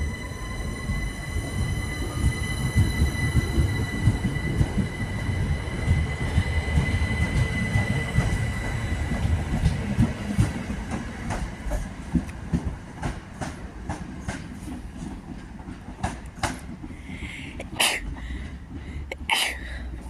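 A train running through the station. A high steady whine and a rising motor whine come over a low rumble, then from about halfway the wheels click over rail joints, the clicks growing sparser as the sound fades.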